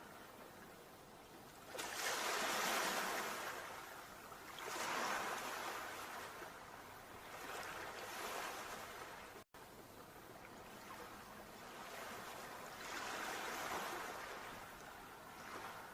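Sea waves washing ashore, the surf swelling and fading every few seconds, with the loudest surge coming in suddenly about two seconds in. The sound cuts out for a split second about halfway through.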